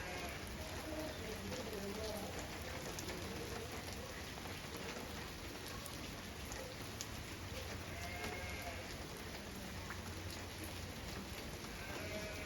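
Steady rain falling, with a few faint pitched calls over it near the start, about eight seconds in and near the end.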